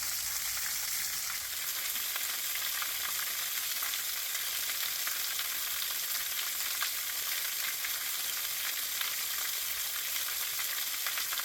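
Small waterfall: water pouring and splashing in a steady, even rush, most of it high-pitched.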